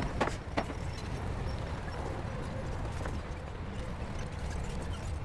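Heavy earthmoving machinery engine running with a steady low rumble, with two sharp metallic clanks in the first second.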